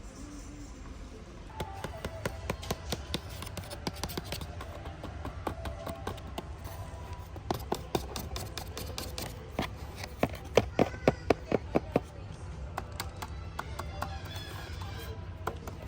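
Hands handling small plastic toys and packaging: a run of light clicks and taps, with a quick cluster of sharper clicks near the middle, over music and voice-like sound.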